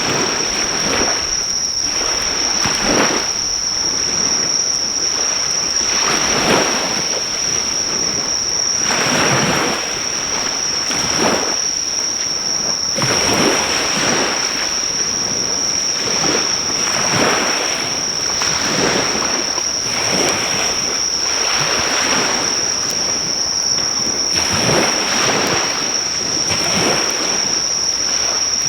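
Sea waves breaking and washing on the shore, swelling every second or two, with insects chirring in one steady high-pitched drone throughout.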